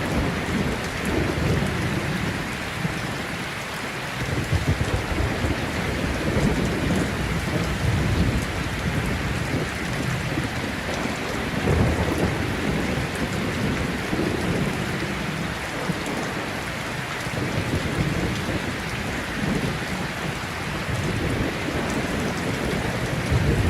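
Steady heavy rain, with thunder rumbling low in repeated rolls that swell and fade, the strongest about halfway through.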